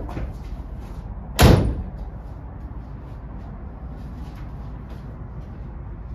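A single loud slam about a second and a half in, like a door being shut, over a steady low background noise.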